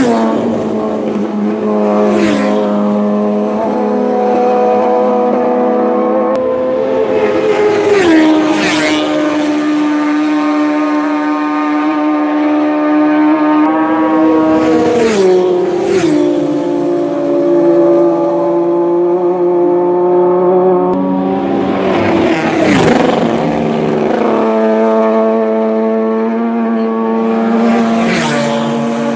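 Racing motorcycles passing at speed one after another, about five pass-bys, each engine note holding high as the bike approaches, then dropping sharply in pitch as it goes by.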